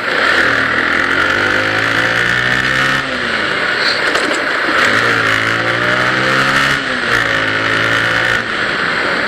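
Bajaj Pulsar 135 LS single-cylinder engine revving up in three pulls, its note climbing and then falling back between them, under a steady rush of wind.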